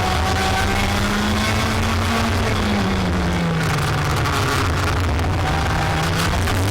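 Racing kart engine heard onboard, running at speed; its pitch drops about three seconds in, as if lifting off for a corner, then holds steady, over a constant low rumble.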